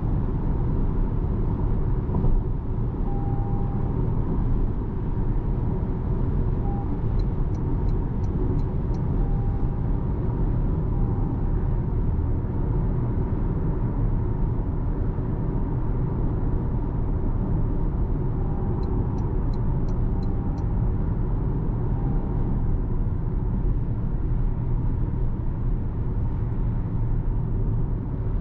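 Inside the cabin of a 2026 Toyota RAV4 2.5-litre hybrid on the move: steady low road and tyre rumble with wind noise. Twice a short run of faint ticks sounds over it.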